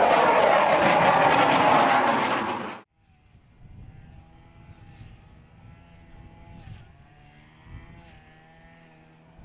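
Grumman EA-6B Prowler's twin J52 turbojets running loud, cutting off abruptly about three seconds in. A much fainter engine hum follows, its pitch wavering slightly.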